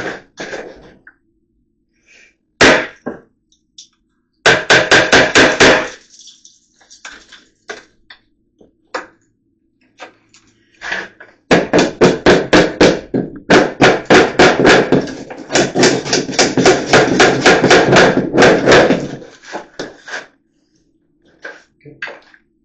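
Hammer rapidly striking a nail punch to set nails into wooden lath: one blow, then a quick run of about six strikes a second, and after a pause a longer run of rapid strikes, with a few lighter knocks between.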